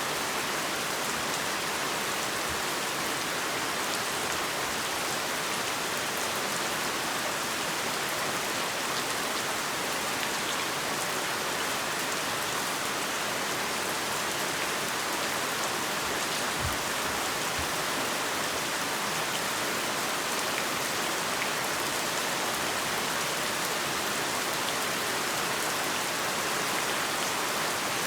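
Heavy rain falling steadily: an even hiss of rain on surfaces with individual drops ticking through it, and a couple of faint low thumps about two-thirds of the way through.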